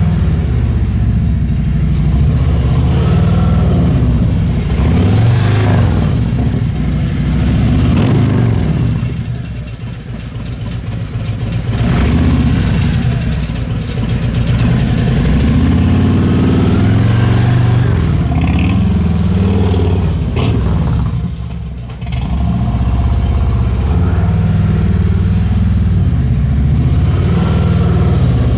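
Motorcycle engine running at low speed through slow, tight U-turns, the revs rising and falling, with the sound easing off briefly twice.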